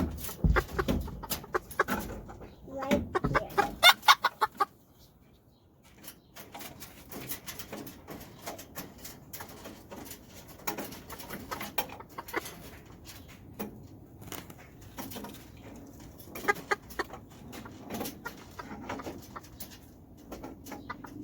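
Serama bantam chickens clucking: a loud flurry of short squawks and clucks in the first few seconds, a brief lull, then steady softer clucking mixed with light clicks and taps.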